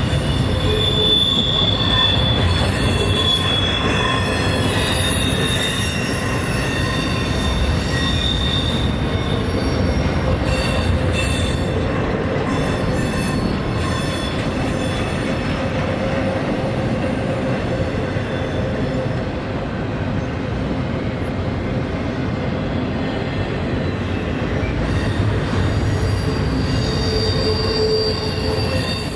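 Freight train rolling past on steel rails, a steady rumble with thin wheel squeals that come and go.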